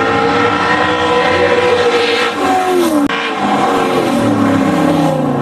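Car engine running hard at high revs; its pitch falls about two and a half seconds in, then after an abrupt break the engine holds a lower, steady note.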